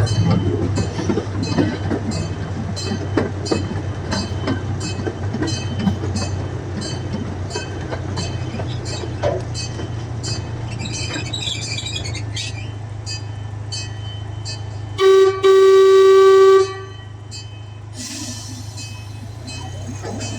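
Zoo train running along its track, with a steady engine hum and regular clicking of the wheels over the rails. About 15 seconds in its horn sounds a short toot, then a longer one.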